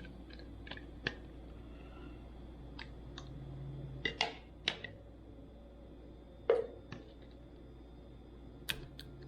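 Scattered clicks and knocks of kitchen containers and utensils being handled, with the loudest knock about six and a half seconds in.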